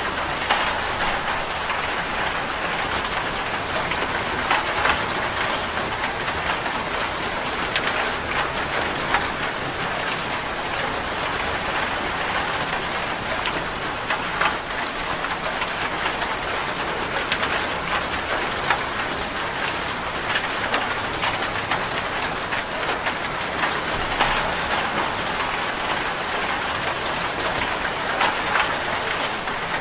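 Steady rain falling, an even hiss with scattered louder drop taps.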